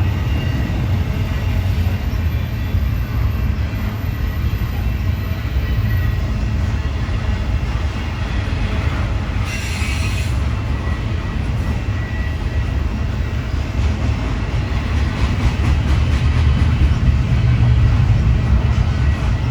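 Freight train cars rolling past close by: a steady low rumble of wheels on the rails, with faint high wheel squeal and a brief brighter hiss about halfway through.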